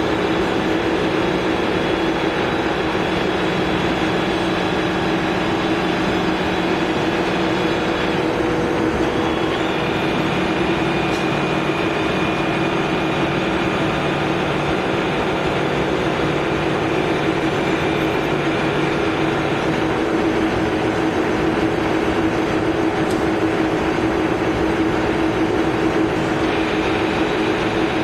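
Poreba TCG 160 engine lathe running under power: a steady mechanical hum with gear whine from the headstock. The whine changes pitch about a third of the way through and shifts again later.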